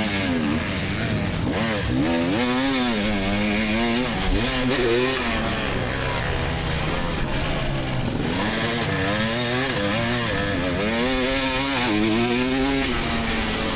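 2024 GasGas EX300 two-stroke dirt bike engine under hard riding, its pitch climbing and dropping again and again as the throttle is worked and gears change.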